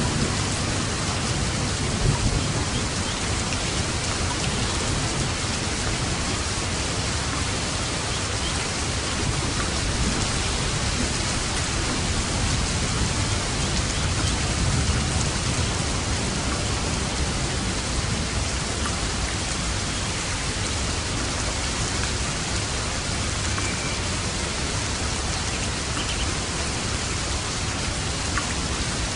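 Steady rain falling, a dense even patter, with low rumbles of distant thunder now and then.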